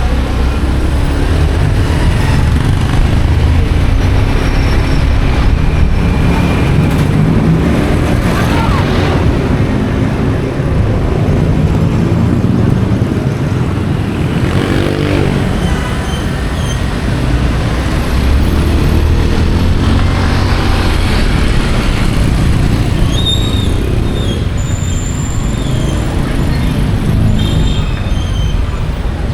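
Motorcycle taxi ride through city traffic: the motorcycle's engine and the noise of surrounding traffic under a strong, steady low rumble. A few brief high-pitched tones sound toward the end.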